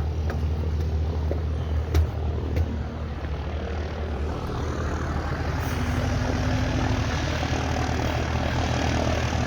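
Light aircraft's piston engine and propeller running on the airfield, a steady drone. Two short knocks come about two seconds in.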